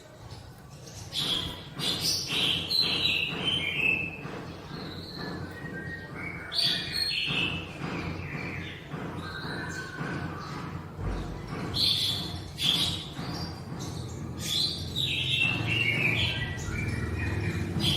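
A sunbird (the Indonesian 'kolibri') singing in full voice: quick high chirps and rapid trilled phrases that step down in pitch, repeated several times, over a faint low hum.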